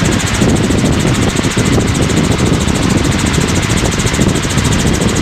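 Helicopter cabin noise in level cruise: the engine and rotors running steadily and loudly, with a fast, even pulsing.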